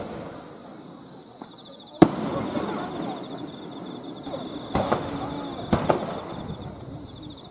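Fireworks bursting: one sharp bang about two seconds in, then smaller cracks near five and six seconds, over steady insect chirring.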